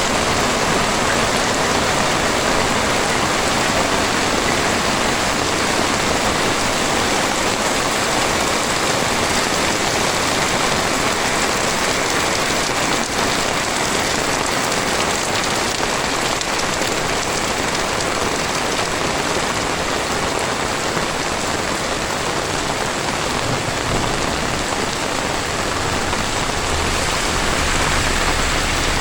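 Heavy tropical rain falling steadily on the ground and surrounding surfaces.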